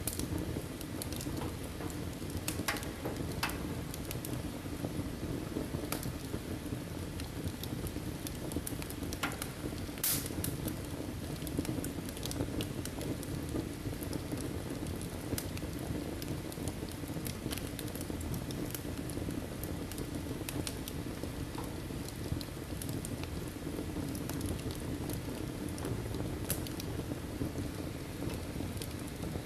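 Wood fire burning in a fireplace: a steady low rumble with scattered crackles and pops, and one louder pop about ten seconds in.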